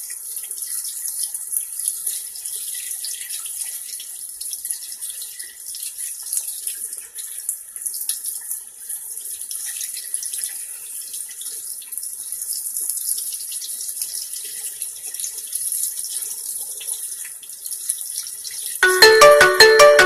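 A steady high hiss, then about nineteen seconds in a loud electronic jingle of quick, bright repeated notes starts, like a phone ringtone.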